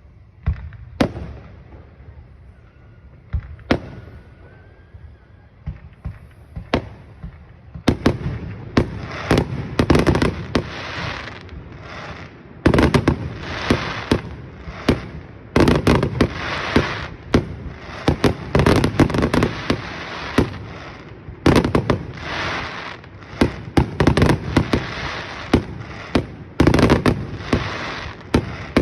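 Fireworks display: a few separate booming shell bursts, then from about eight seconds in a dense run of bangs and crackling that grows heavier from about thirteen seconds on.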